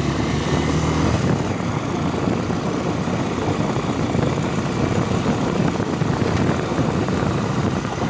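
Motorcycle running steadily on the move, its engine under a continuous rush of noise.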